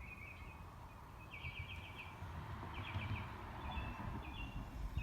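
A small bird singing a series of short, rapid trills, over a steady low rumble.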